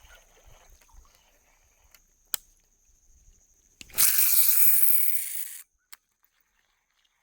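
A sharp click, then about four seconds in a loud rushing whir for about a second and a half that fades slightly and cuts off suddenly with another click: a baitcasting reel's spool spinning out on a cast.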